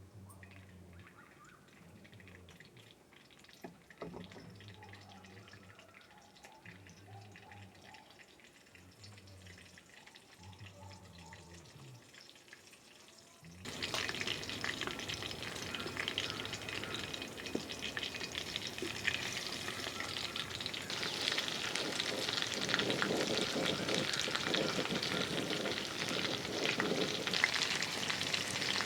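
Food frying in hot oil in a pan: a loud, steady sizzle starts suddenly about halfway through. Before it there is only a faint low hum.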